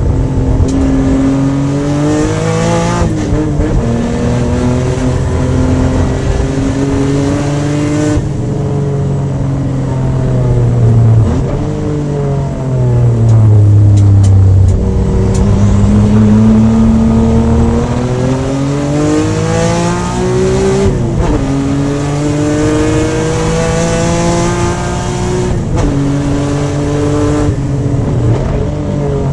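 Nissan S13 engine at full throttle on track, rising in pitch through the gears and dropping sharply at each upshift, about three seconds in, near eight seconds in, and twice in the last third. In the middle the revs fall away as the car slows, then climb again.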